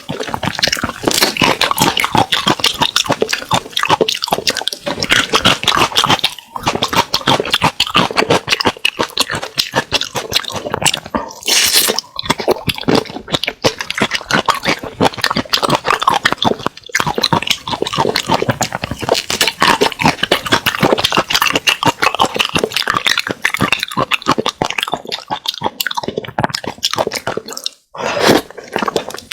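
Close-miked eating: a person chewing and smacking on spicy seafood boil, with dense wet clicks and a few brief pauses.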